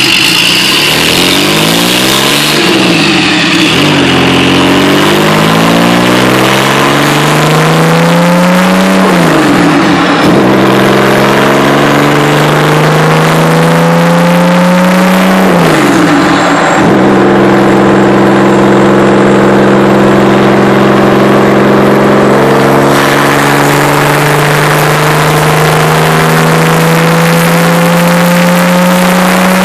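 Porsche 930 turbocharged air-cooled flat-six on a dynamometer, pulling up through the gears at full load. The engine note rises steadily, drops sharply at two upshifts, then climbs in one long pull.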